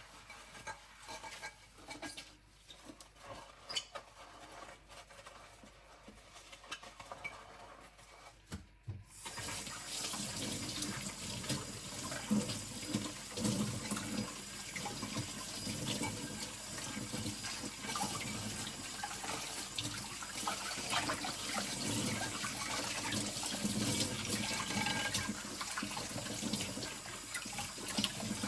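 Glassware and lids being scrubbed by hand at a kitchen sink, with scattered light clinks. About a third of the way in the tap comes on and water runs into the sink, splashing over the dishes.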